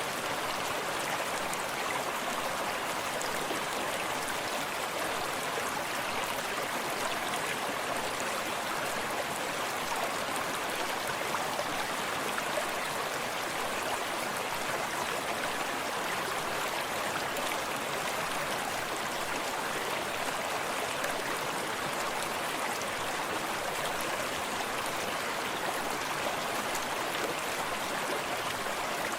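Forest stream running steadily over rocks, with water lapping close by.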